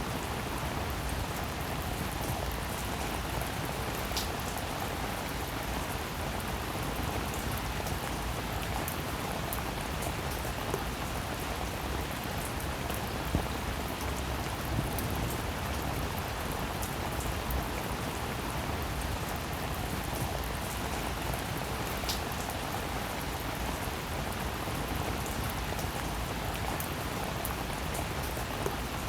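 Steady rain falling, with the patter of many individual drops.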